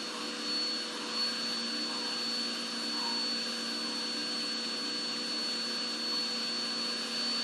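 Vacuum cleaner motor running steadily, with a constant high whine over its hum.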